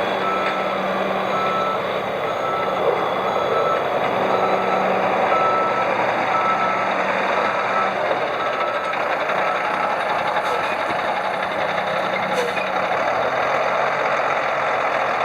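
1995 International 4900 flatbed truck's engine running with its reverse alarm beeping about twice a second; the beeping stops a little past halfway and the engine runs on.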